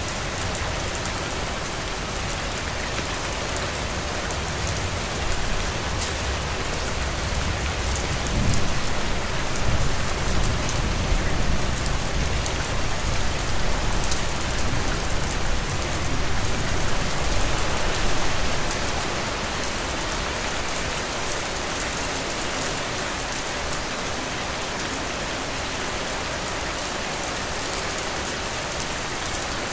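Heavy rain falling as a steady, dense hiss. A low rumble swells in about a quarter of the way through and fades out by about two-thirds of the way.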